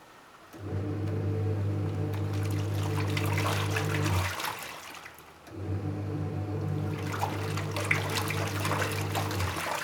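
Panasonic twin-tub washing machine's wash tub agitating a load, with water sloshing. The motor hums for about four seconds, stops for about a second, then runs again for about four seconds as the pulsator reverses direction, and stops again near the end.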